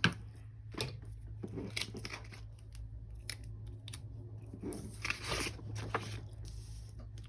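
Sticker sheets and planner paper being handled: a scattering of small taps, crinkles and short paper scrapes, with a longer rustle about five seconds in.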